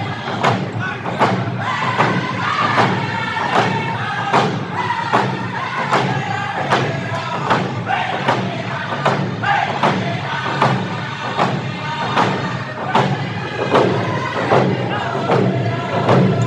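Loud live music with a steady thudding beat of about two strokes a second, voices singing over it and crowd noise.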